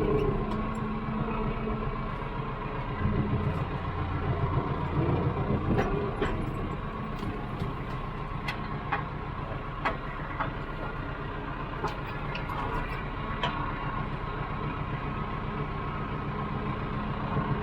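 Farm tractor engine running steadily while a hydraulic log grapple is worked. A deeper hum joins in for a few seconds near the start, and there are scattered sharp knocks.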